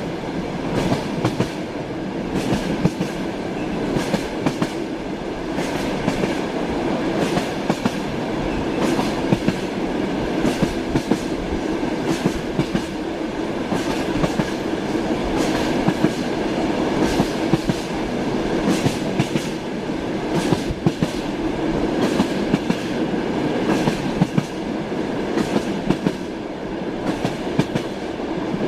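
Train in motion: a steady rumble of the cars on the rails, with frequent sharp clicks and knocks of the wheels over rail joints.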